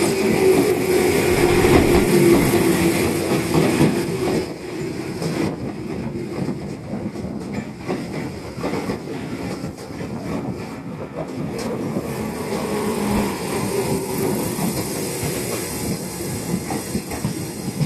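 Tobu 30000 series electric train pulling out, its cars running past with wheels clacking over rail joints. A motor whine falls in pitch over the first few seconds, then the sound eases somewhat as the train draws away.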